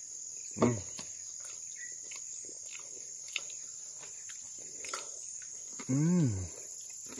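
Insects keep up a steady high-pitched buzz. A person makes a short hummed sound just under a second in and a longer one that rises and falls about six seconds in, the loudest sound here.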